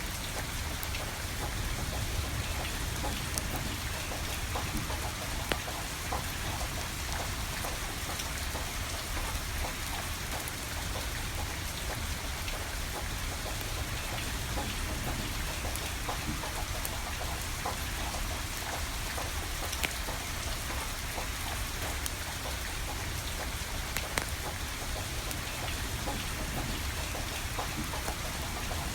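Steady rain falling, with scattered sharp crackles and pops from burning firewood.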